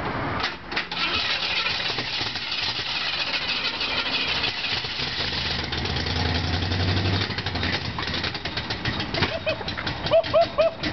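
Ford 5.0 fuel-injected V8 in a 1972 Mercury Comet catching on its first start after the swap and running roughly for several seconds, then stuttering near the end. Laughing voices break in near the end.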